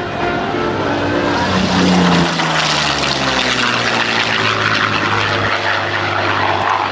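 Yak-9 fighter's Allison V12 engine and propeller in a fly-by: the engine note drops in pitch about two seconds in as the plane passes, then settles into a steady drone with a rush of propeller noise.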